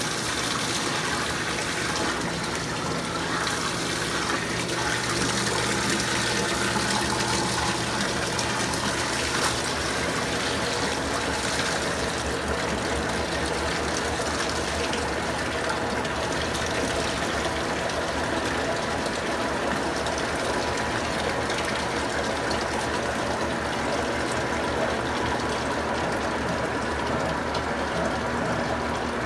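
Electrolux Prosdócimo washing machine running its rinse cycle on a load of three microfibre blankets: steady rushing water over a constant low machine hum.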